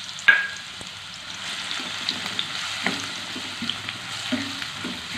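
Chopped onion and green chillies sizzling in oil in a stainless-steel kadai, stirred and scraped with a wooden spatula. A sharp metal clink sounds just after the start.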